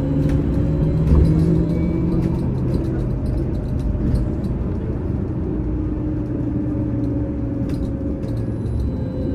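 Inside a VMZ Avangard trolleybus on the move: a steady electric drive hum of several held tones over road rumble, with scattered light rattles.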